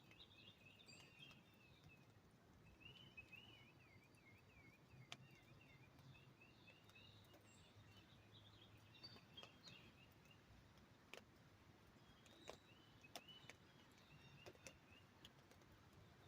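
Songbirds chirping in repeated short trills, with scattered single drips tapping on an umbrella as the rain dies away.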